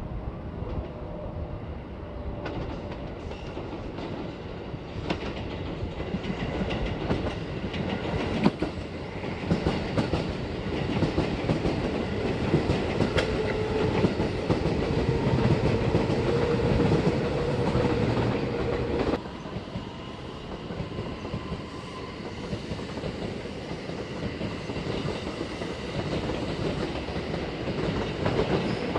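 A JR Osaka Higashi Line local electric train passing: wheels clattering over rail joints, with a steady hum that grows, is loudest about halfway through, then drops off suddenly. Near the end a second train, an out-of-service Kounotori limited express, comes closer and the rail noise builds again.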